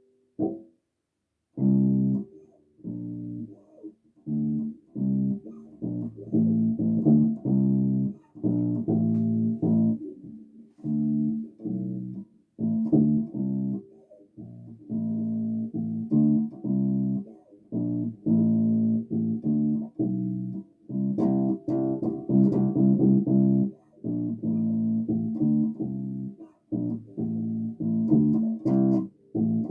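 Bass guitar played solo: plucked notes in short phrases separated by brief pauses, after a lone pluck and a short silence at the start.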